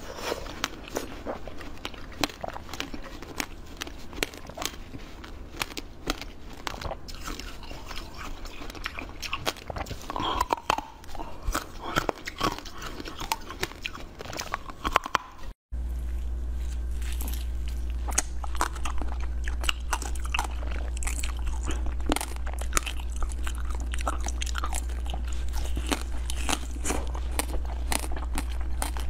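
Close-miked crunching and chewing: a person bites and chews translucent blue cubes with many small crisp crunches. About halfway through the sound cuts out for an instant, and the chewing goes on with a different food over a steady low hum.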